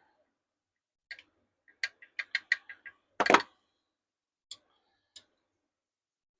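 Hard objects being handled: a quick run of light clicks about two seconds in, then one louder knock, followed by two faint single ticks.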